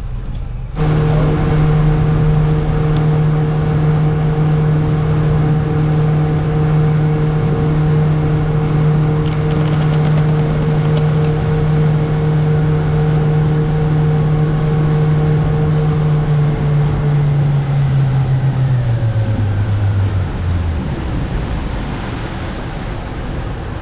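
A boat's engine running at speed with a steady drone and wind and water noise around it. Near the end it throttles down, the pitch dropping in steps until the drone fades out.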